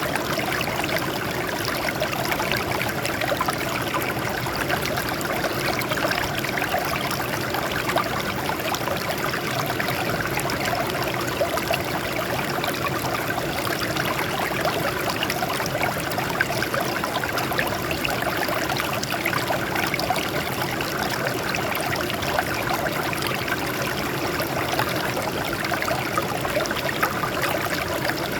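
Water flowing and splashing over rocks, a steady babbling stream.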